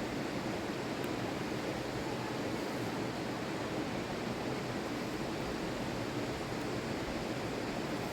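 Steady rushing of fast-flowing river water, an even unbroken noise at a constant level.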